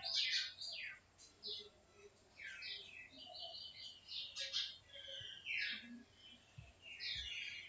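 Birds chirping: many short, high notes in quick succession.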